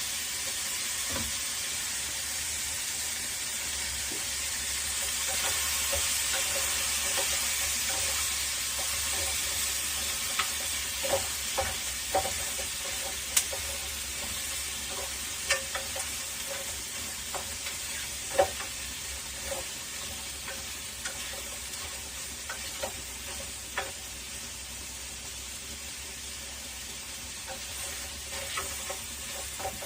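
Food sizzling steadily in a frying pan, with a spatula now and then knocking and scraping against the pan as it is stirred; the knocks come mostly in the middle.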